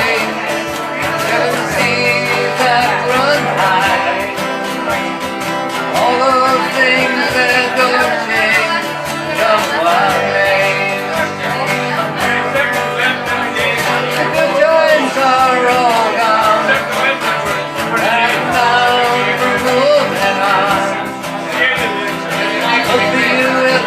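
Acoustic guitars strumming a country-folk song, with a wavering melody line carried over the chords.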